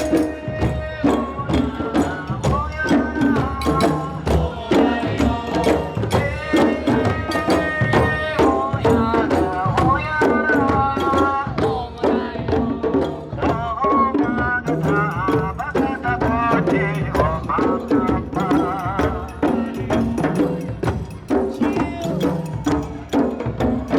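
African-style parade music: drums and other percussion played in a fast, steady rhythm while a group of voices sings along.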